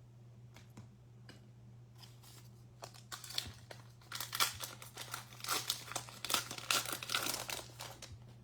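Foil wrapper of a pack of baseball cards being torn open and crinkled: a few light clicks at first, then a dense crinkling run from about three seconds in until near the end.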